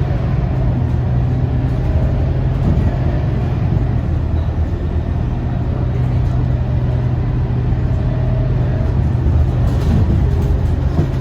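Scania K230UB bus driving along, its diesel engine running at a steady low hum over road noise.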